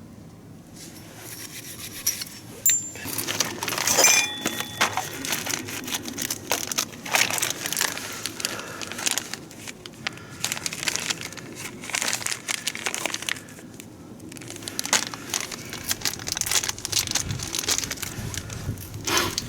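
Hand work with tools and parts: irregular clicks, clinks and knocks, a few of them ringing briefly like struck metal, with some rustling.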